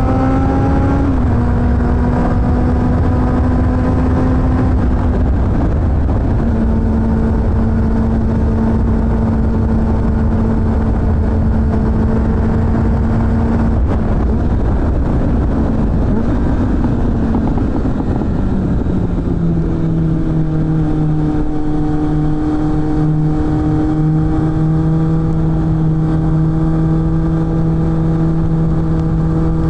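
Suzuki GSF600 Bandit's inline-four engine running through an aftermarket BOS exhaust while riding, with wind noise. The revs climb and drop with a gear change about a second in, hold steady for a long stretch, fall to a lower steady pitch about two-thirds of the way through, and start rising again near the end.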